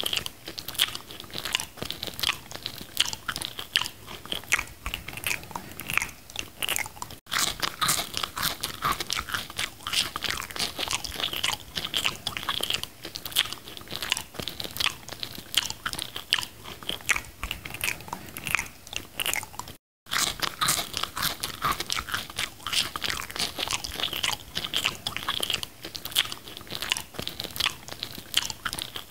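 Person biting and chewing a McDonald's burger in close-up, with steady crunching and mouth clicks. The sound cuts out briefly twice.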